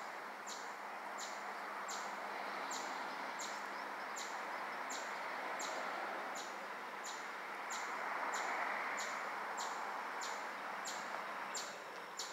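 A bird repeating a short, high, falling chirp, evenly spaced about three times every two seconds, over a steady rushing background noise that swells about eight seconds in.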